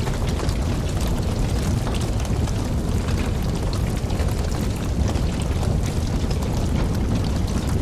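Campfire burning: a steady low rush of flames with frequent small crackles and pops.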